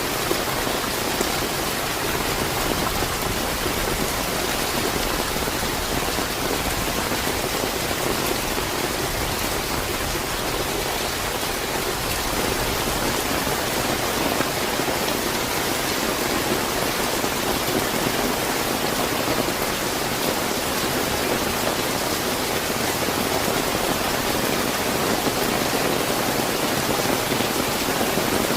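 Steady, fairly heavy rain falling, a dense even hiss with no separate drops or thunder standing out.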